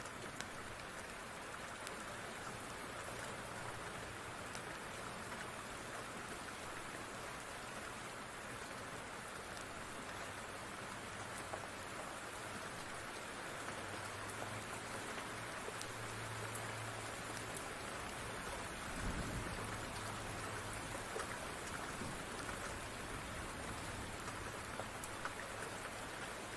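Steady rain falling, with scattered sharp crackles from a wood fire. About two-thirds of the way through there is a brief low rumble.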